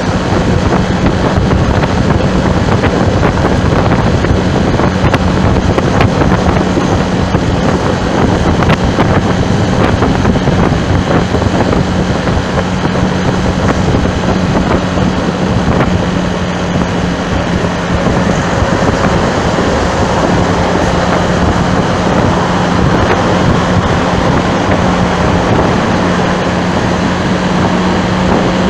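Heavy wind noise buffeting the microphone over a steady low engine drone from a moving vehicle.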